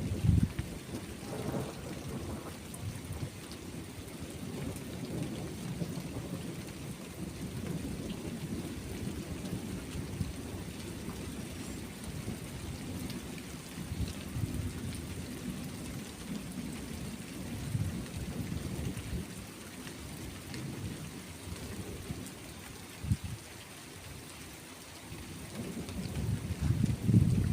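Rolling thunder rumbling low and long over steady rain. The rumble is strongest at the start, eases through the middle, and swells again near the end.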